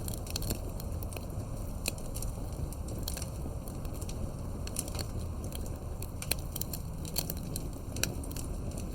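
Campfire burning with a steady low rumble and irregular sharp crackles and pops of burning wood.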